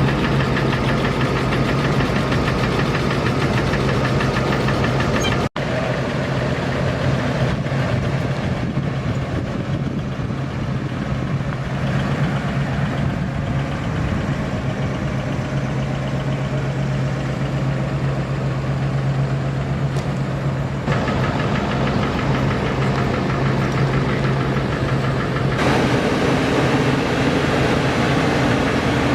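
Box truck engine running steadily with a strong low hum. The sound cuts out for a split second about five and a half seconds in, and its character shifts twice in the last third.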